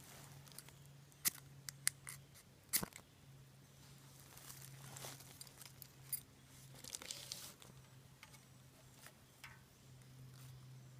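Camp gear being handled: a few sharp clicks and knocks between about one and three seconds in, then rustling and crinkling, over a steady low hum.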